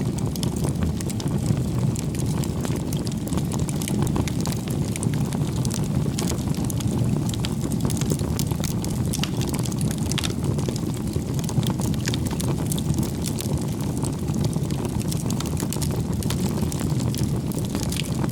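Wood campfire burning: a steady low rush of flames with frequent sharp crackles and pops from the burning logs.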